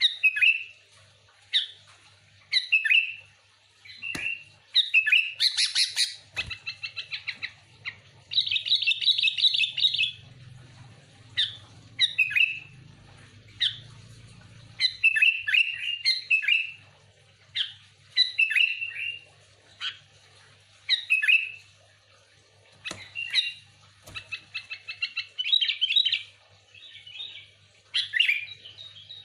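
Sooty-headed bulbul singing and chattering: short bubbling phrases repeated every second or two, broken by several fast rattling runs of notes.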